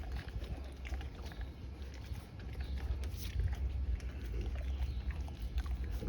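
Cane Corso dog eating, with irregular small crunching and snuffling sounds at its food.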